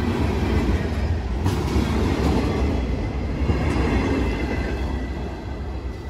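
Freight train's hopper cars and boxcars rolling past close by: a steady rumble of steel wheels on the rails, with a sharp metallic clank about a second and a half in. The rumble fades a little near the end as the last cars move away.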